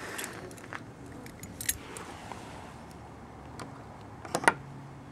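Keys jingling with small clicks and clinks of handling, a sharper clink about a second and a half in and a couple more near the end.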